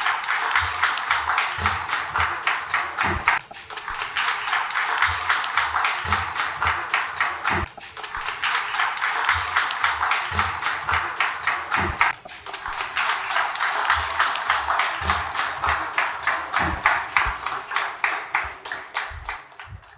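Audience applauding, a dense patter of many hands clapping that dips briefly about three times before ending.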